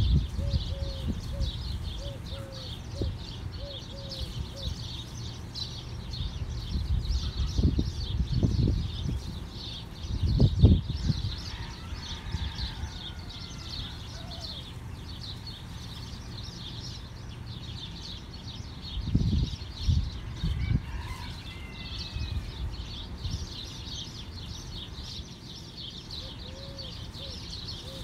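Birds chirping continuously in a dense, high chatter, with a short call repeated several times near the start and again near the end. A few low rumbles swell up over it, the strongest about ten seconds in.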